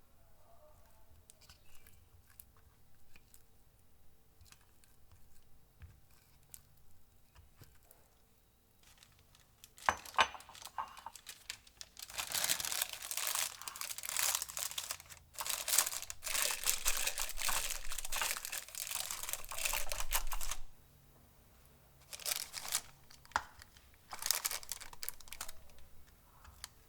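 Faint scattered clicks and taps, then from about ten seconds in a crinkling, tearing noise that grows nearly continuous for about eight seconds and cuts off suddenly, followed by two shorter bursts near the end.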